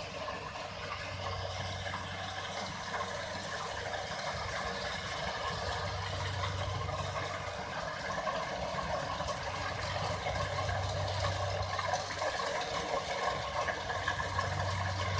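Kubota DC-60 combine harvester's diesel engine and threshing gear running steadily as it works a rice field, a low hum swelling every few seconds.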